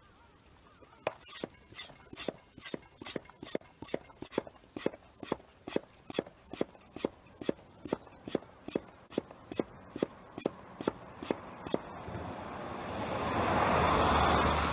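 Hand pump of a manual top-suction oil changer being worked in quick, even strokes, about two a second, to draw the engine oil out through the dipstick tube. Near the end a rushing hiss swells up.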